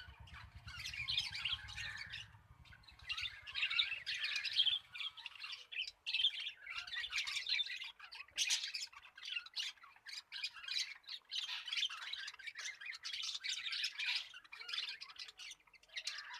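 Small pet parrots chattering and squawking without pause, in shrill, overlapping high calls.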